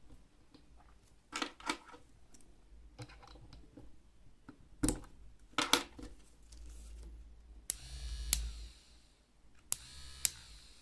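Clicks and taps of small parts being handled. Then two short runs of a small electric motor whirring, each switched on and off with a click.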